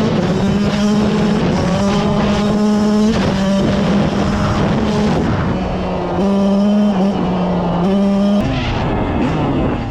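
Kawasaki KX112 two-stroke dirt bike engine held at high revs, its pitch stepping up and down between two close notes every second or so, then dropping to a lower note about eight seconds in.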